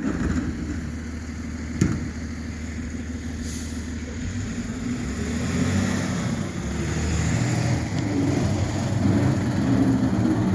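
Garbage truck's diesel engine running with a steady low rumble that grows louder over several seconds, with one sharp knock about two seconds in.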